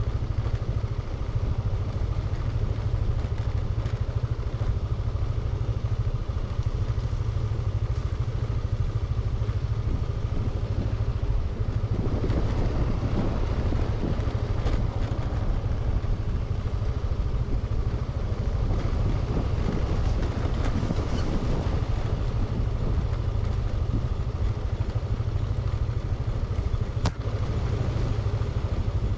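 Motorbike riding: engine and road noise with heavy wind rumble on the microphone, and one sharp click near the end.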